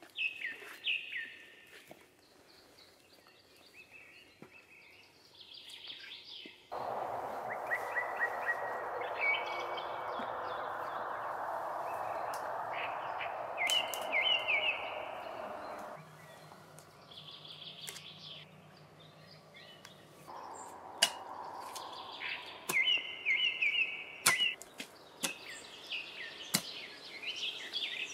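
Small birds chirping repeatedly in a pine forest, with scattered footsteps and knocks. A steady rushing noise starts abruptly about a quarter of the way in and stops just as abruptly some nine seconds later. Several sharp knocks come in the last third.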